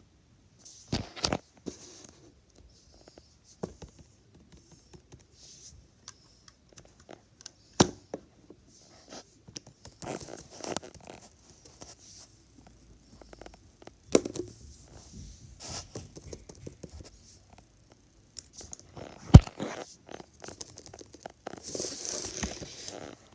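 Small plastic objects being handled: irregular clicks and taps with patches of crinkly rustling, and one sharp knock about two-thirds of the way through.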